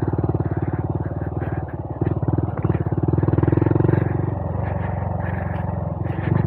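Honda Monkey 125's small single-cylinder four-stroke engine running under throttle while riding a dirt trail. It eases off about two-thirds of the way through and carries on lower and steadier.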